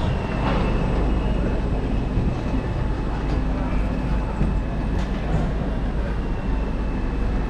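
Passenger train rumbling steadily close by, with a faint high whine over the low rumble.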